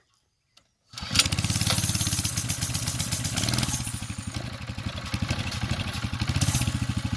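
Mini bike's small engine running, starting abruptly about a second in. It revs for a couple of seconds, then settles to a lower, steady run. The engine is still cold and not yet warmed up.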